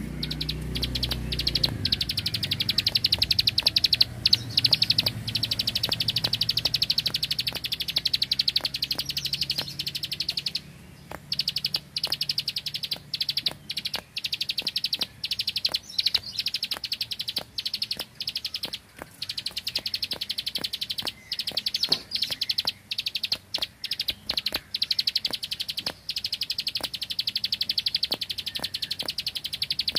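Prinia (prenjak) singing in long, very rapid rattling trills of high clicks, like machine-gun fire, broken by short pauses, the clearest about eleven seconds in. A low hum sits under the first half and fades out.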